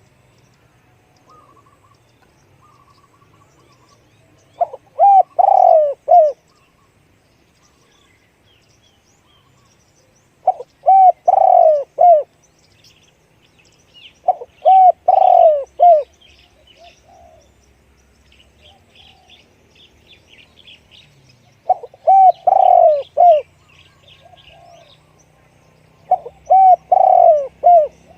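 Spotted dove cooing: five phrases of a few deep coos each, spaced about four to seven seconds apart, each with a loud, drawn-out middle note. Faint chirps of small birds can be heard between the phrases.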